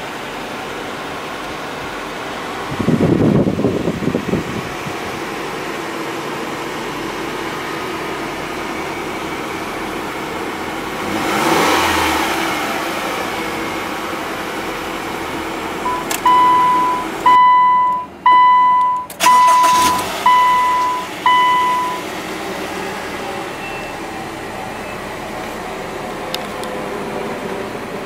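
A 2012 Subaru Legacy's 2.5-litre flat-four boxer engine running at idle, blipped briefly about three seconds in and revved again around twelve seconds in. Partway through, a run of about six short, high electronic beeps sounds.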